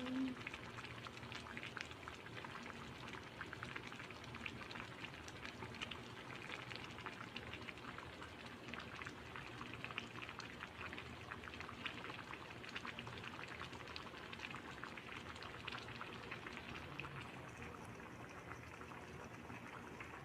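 Pot of galunggong fish broth with sweet potato tops boiling: a steady patter of many small bubbles popping.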